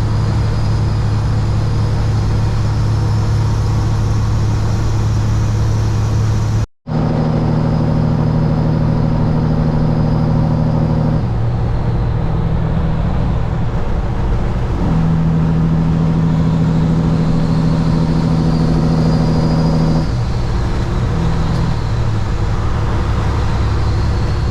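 Semi-truck's diesel engine droning steadily, heard from inside the cab while driving, its pitch stepping up and down to new levels a few times. The sound cuts out completely for a split second about seven seconds in.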